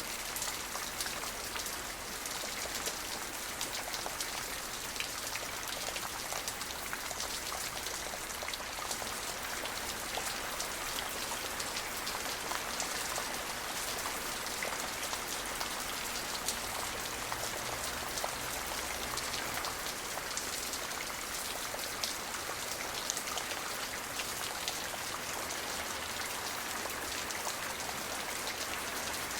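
Steady rain falling, a dense patter of drops striking a surface.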